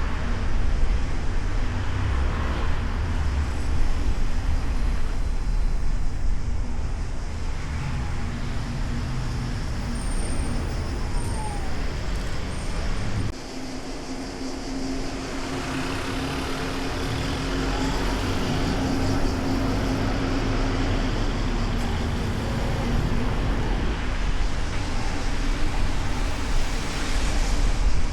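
City street traffic heard from a car's hood: low road and engine rumble with passing vehicles. About halfway through, the rumble drops suddenly and a steady engine hum holds for several seconds before the traffic noise builds up again.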